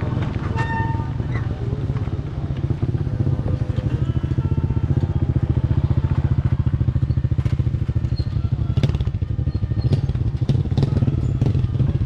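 A small engine running steadily with a fast, even beat, like a motorcycle at low speed; the beat becomes firmer and louder about three seconds in. A few sharp clicks sound over it in the second half.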